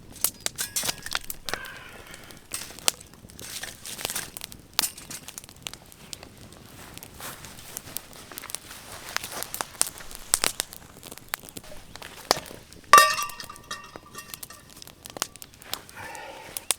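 Camp cooking gear being handled: crinkling and rustling with scattered clicks and clinks, and one loud knock about 13 seconds in that rings on with a metallic tone.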